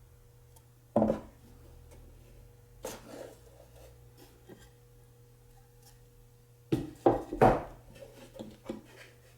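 Wooden pieces knocking and clattering as they are handled and set down. There is a sharp knock about a second in, a lighter one near three seconds, then a quick run of loud knocks around seven seconds, over a faint steady hum.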